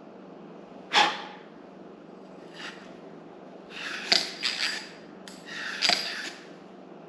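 Metal parts being handled in a workshop: a sharp clank about a second in, then a cluster of knocks and short scrapes around the fourth to sixth second, over a faint steady hum.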